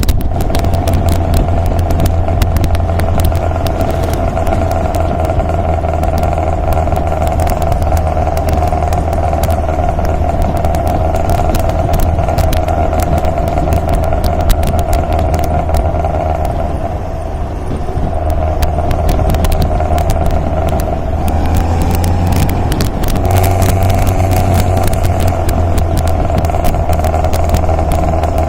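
MGA roadster's four-cylinder engine running steadily under way, with a dip in level about two-thirds of the way through and a change in pitch soon after before it settles again. Many short clicks and crackles run over it.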